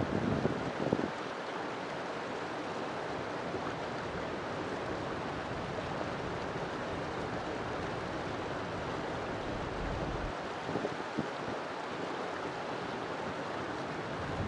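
River water flowing with a steady rushing sound, with brief louder low rumbles in the first second and again about eleven seconds in.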